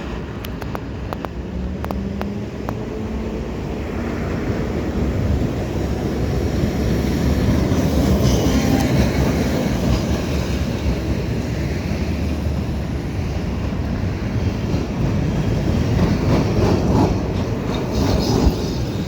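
ATM Milan Series 1500 Peter Witt tram running on street track: a steady rumble of wheels and motors, with a few sharp clicks over rail joints in the first seconds and brief high wheel squeals.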